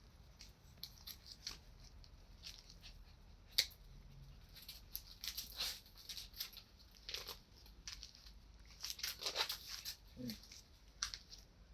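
Samoyed puppies playing: faint scuffling, scratching and chewing noises with scattered small knocks, one sharper knock a few seconds in, and a short falling squeak near the end.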